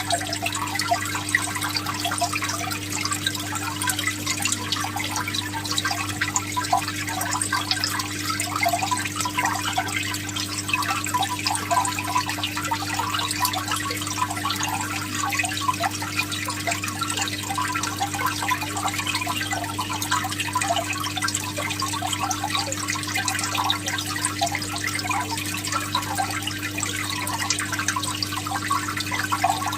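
Aquarium water trickling and bubbling steadily, with a constant low electrical hum underneath, as from the tank's filter or pump.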